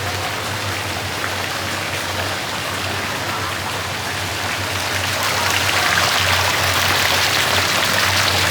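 Steady rush of falling water, an even hiss that grows a little louder about five seconds in.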